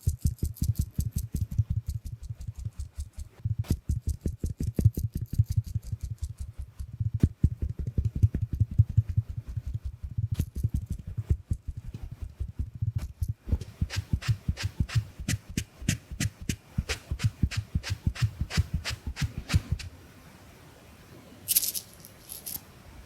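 Mini makeup puff sponge patting rapidly against the camera lens: a fast run of soft, muffled pats with small clicks. The pats stop about 20 seconds in, and a brief hiss follows near the end.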